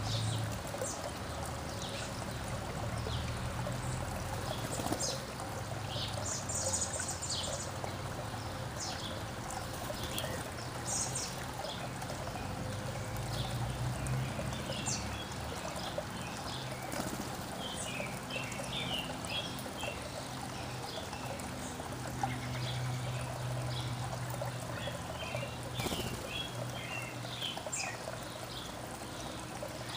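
Backyard songbirds chirping over a steady trickle of running water. The short chirps come in scattered bursts that grow busier in the second half.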